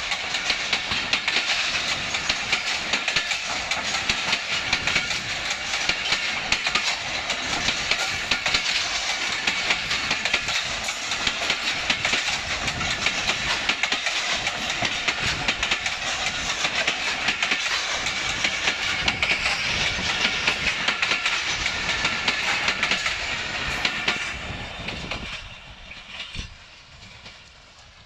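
Passenger coaches rolling past at close range, steel wheels clattering over the rail joints in a continuous loud rush. About 25 seconds in the last coach passes and the sound falls away quickly as the train recedes.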